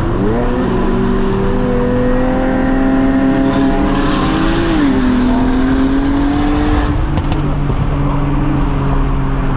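Car engines running at speed under load: several steady engine tones that rise at the start, with one climbing and then dropping sharply about five seconds in, like a gear change.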